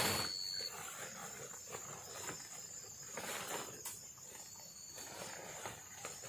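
Night insects in tropical forest, keeping up a steady high-pitched chorus, with one brief thin whistle-like note in the first half-second. A sharp knock right at the start and a few scattered rustles and knocks break through it.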